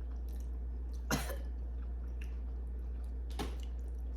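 Two short coughs from a person eating, about two seconds apart, the first about a second in and the louder, over a steady low hum.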